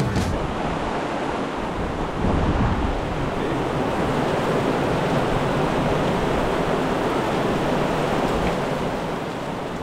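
Heavy rain pouring down, a dense, even hiss that grows a little louder about two seconds in.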